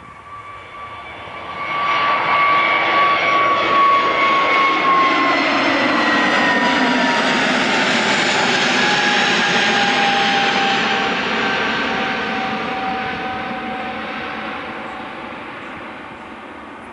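Airbus A320-211's two CFM56-5A1 turbofans at takeoff power passing by. A loud jet roar rises sharply about a second and a half in, with a high whine that falls in pitch as the aircraft goes past. The sound then slowly fades.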